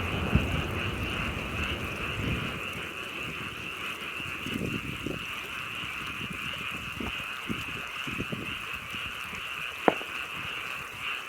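Frogs chorusing steadily, a continuous high trilling hum. A single sharp crack sounds near the end.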